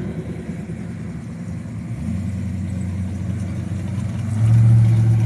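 Classic car engine rumbling at low speed as the car rolls past, getting louder about two seconds in and loudest near the end.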